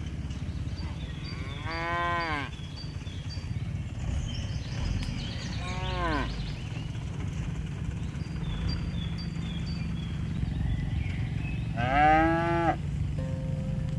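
Cattle mooing: three separate calls, about two seconds in, about six seconds in, and a louder one near the end, each rising and then falling in pitch. A steady low rumble lies under them.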